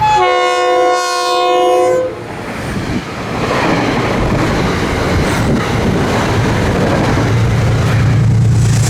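Metro-North train sounding its multi-chime air horn for about two seconds, then passing at speed with a steady rush of wheel and rail noise and clickety-clack. A low drone swells near the end.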